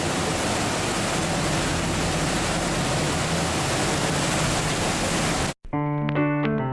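Steady rushing noise aboard a moving boat, with a faint low hum under it. About five and a half seconds in it cuts off suddenly and electric piano music begins.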